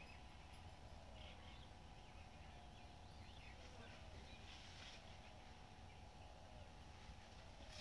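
Near silence: faint, scattered bird chirps over a low steady hum and rumble.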